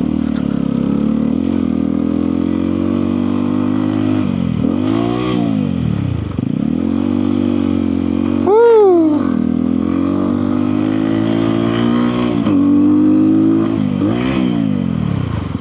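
Crossfire motorcycle engine pulling under way, its pitch climbing through each gear and dropping at the shifts, four times over. A short, loud tone that swoops up and falls away cuts in about eight and a half seconds in.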